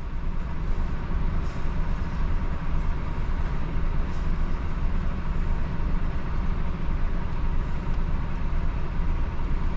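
Truck's diesel engine running, a steady low rumble.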